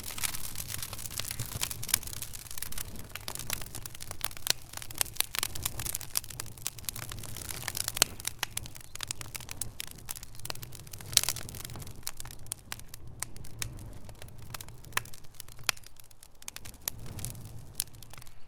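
Wood fire in a fireplace crackling: a dense, irregular run of sharp pops and snaps over a low, steady rumble of the flames.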